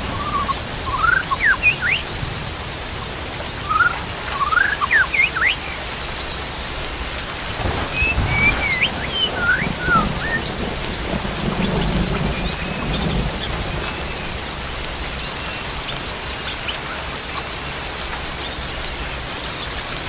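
Birds calling in short chirps and quick rising and falling whistles, in clusters, over a steady hiss of rain; a low rumble comes in around the middle.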